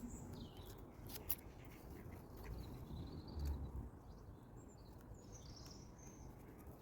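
Faint outdoor ambience: a few birds chirping now and then over a steady low rumble, with a single small click about a second in.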